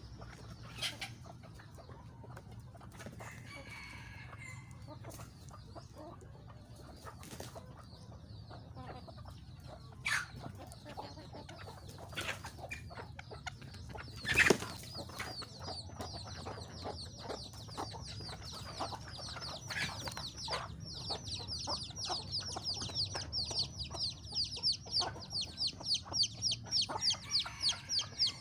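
Chickens calling, with a fast, steady run of high, falling calls through the second half. Scattered knocks are heard throughout, the loudest about halfway.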